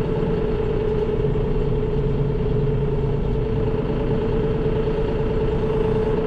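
Tractor engine running steadily at an even speed, with a strong, constant pitched hum over the engine noise.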